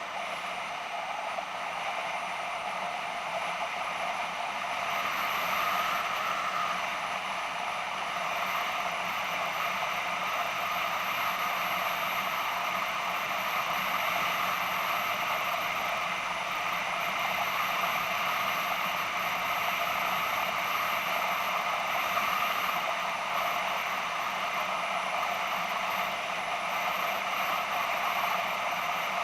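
BMW F650GS motorcycle riding along at a steady pace: a constant rush of wind and road noise over the engine's hum, as picked up by an action camera mounted on the moving bike.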